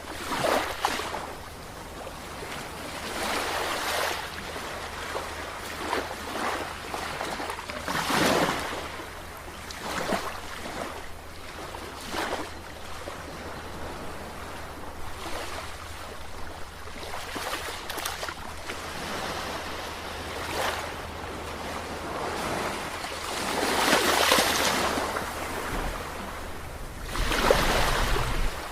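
Sea waves breaking and washing in, a hiss of surf that swells every few seconds, the biggest surges near the end, over a steady low rumble.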